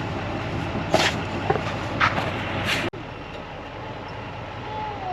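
Truck engine idling with a steady low rumble, with three short, sharp scraping noises in the first three seconds; the sound drops suddenly to a quieter idle about three seconds in.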